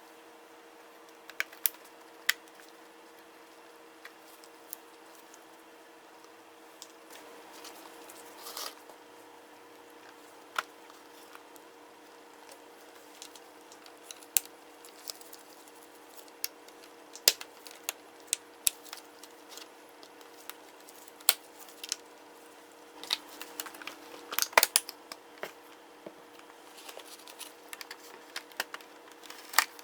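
Scattered sharp clicks and small knocks of tools and plastic laptop parts being handled during disassembly, coming in irregular clusters over a steady faint hum.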